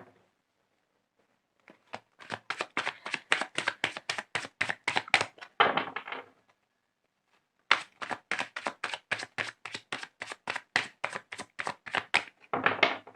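A deck of tarot cards shuffled by hand: two runs of quick, even card slaps, about seven a second, each ending in a short dense riffling rush.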